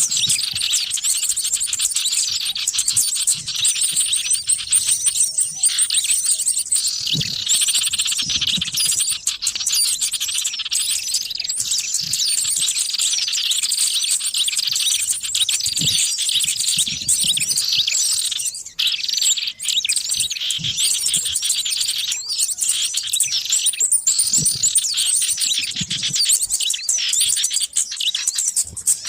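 Bird-lure recording of a noisy flock of small birds: many chirps and trills overlapping in a dense, unbroken chorus, with a few brief low thuds underneath.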